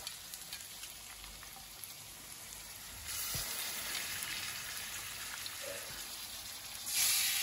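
Sliced onions frying in hot mustard oil in an iron wok: a steady sizzle with small scrapes of a steel spatula. About three seconds in, the sizzle grows louder as pieces of yogurt-marinated mutton go into the oil, and it jumps louder again near the end.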